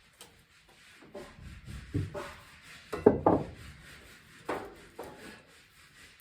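Irregular scraping and rubbing with a few sharp knocks, loudest in a quick cluster about three seconds in, as old electrical wiring and cable are pulled and torn loose.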